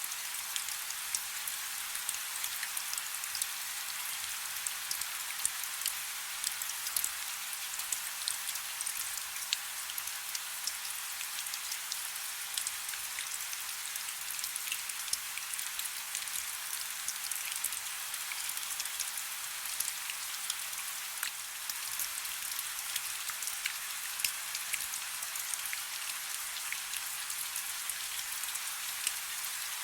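Soft steady rain: an even hiss with many small, crisp drop ticks scattered through it, high in pitch with little low rumble.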